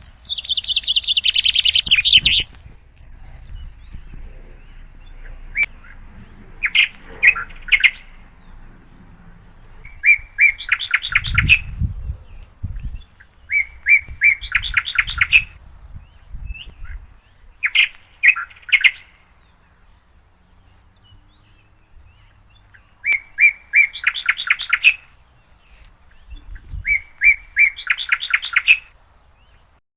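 A small bird singing: short phrases of quick, repeated notes, each about a second long, coming every few seconds, with a denser, higher call at the start.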